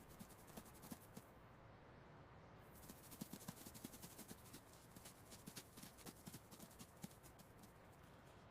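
Faint, quick, irregular tapping and scratching of a small animal's feet: a mouse scurrying, busiest in the middle.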